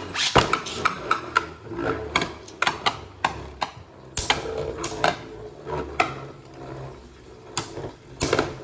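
Two Beyblade Burst spinning tops, Chosey Valkyrie and Venom Devolos, battling in a plastic stadium: irregular sharp clacks as they collide and scrape, over a faint low whirring hum.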